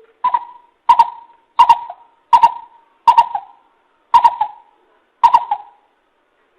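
Greater coucal calling: a series of seven deep hooting notes at one steady pitch, each under a second apart, with the gaps widening slightly toward the end.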